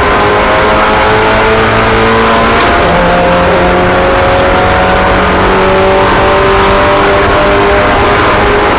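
Several race car engines running together at a steady, high speed, each at its own pitch and drifting slowly up and down as the cars circulate.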